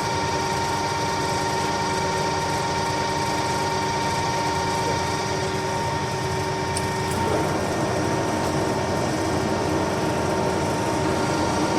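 1M63 heavy engine lathe running with its gearbox turning, a steady mechanical whine with several constant tones. The lower part of the sound changes about seven seconds in, as the feed is being worked.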